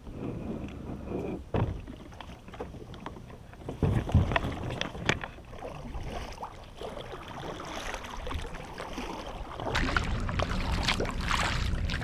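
Kayak being paddled: irregular splashes of the paddle in the water and a few sharp knocks on the hull. A steadier rushing noise comes in near the end.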